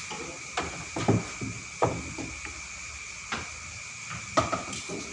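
Billiard balls and cue clacking during play: about five sharp knocks at uneven intervals, the loudest about a second in.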